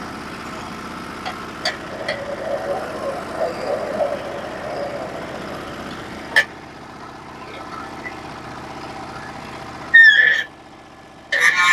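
Norwood HD36v2 portable bandsaw mill's gas engine running steadily, with a few sharp clicks and two brief louder sounds near the end.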